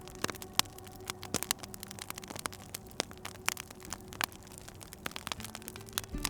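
Wood fire crackling in a fireplace: irregular sharp pops and snaps over a soft hiss, with a faint steady low hum of held tones underneath.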